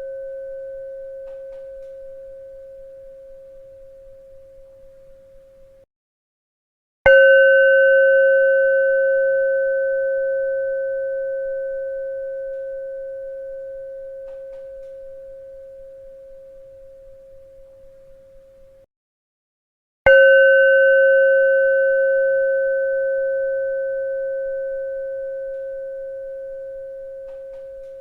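A bell struck twice, about thirteen seconds apart, each stroke ringing with one clear steady tone and a few higher overtones that fade away slowly. The ringing cuts off abruptly into a second of silence just before each new stroke, as in a looped recording.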